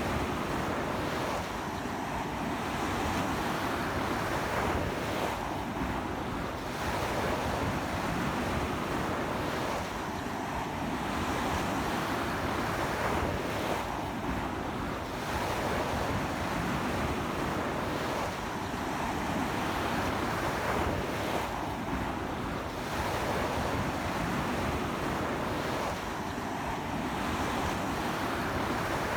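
Ocean waves breaking and washing up a sandy beach in a strong sea wind, with wind buffeting the microphone. Steady surf rising and falling every few seconds.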